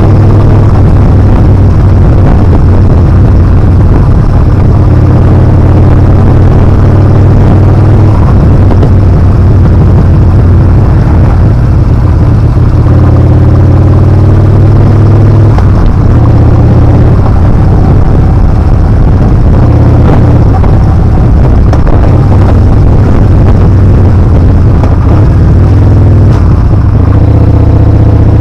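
Yamaha Bolt R-spec's V-twin engine running under way, loud and steady, with the engine note rising and falling a few times, under heavy wind rush on the action camera's microphone.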